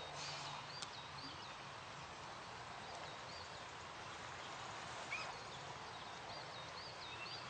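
Faint outdoor ambience with a bird singing short, repeated whistled phrases in three brief spells.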